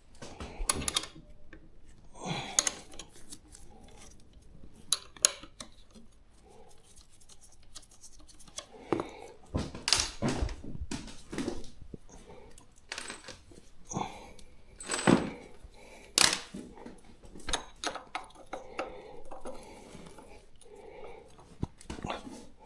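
Metal hand tools clinking and clicking against the front fork and axle as the fork's pinch bolts are loosened: scattered sharp metallic clicks and knocks.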